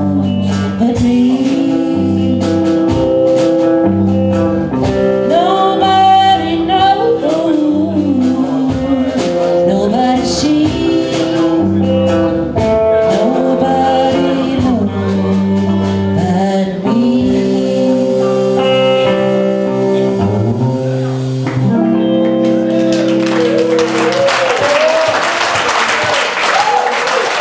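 Live band music with singing, the song ending with held chords about 23 seconds in, followed by audience applause.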